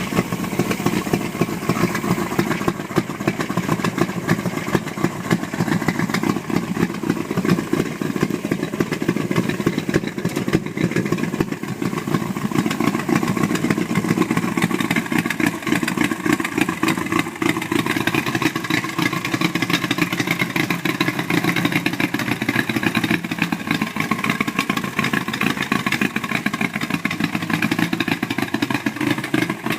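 Hot rod truck engine running steadily, its rapid firing pulses even throughout.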